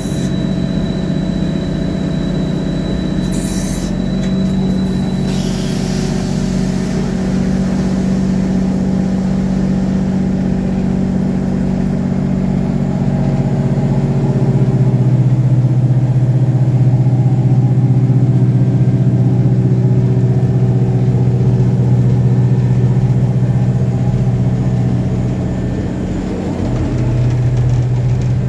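Revathi C650D drill rig's engine running steadily under work, with a thin high whine that stops about five seconds in. About halfway through its note deepens and gets louder, easing briefly near the end.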